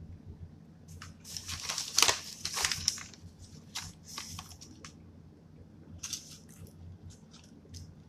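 Food wrapper crinkling and rustling, loudest about two seconds in, followed by a few scattered light clicks.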